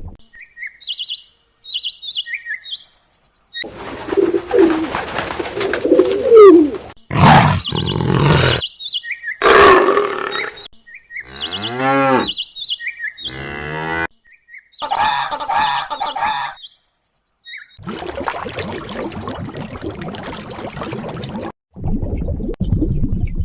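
A string of separate animal calls cut one after another: short, high chirps in the first few seconds, then noisier stretches and a low, pitched call that bends in pitch near the middle, more chirps, and a long rough stretch near the end.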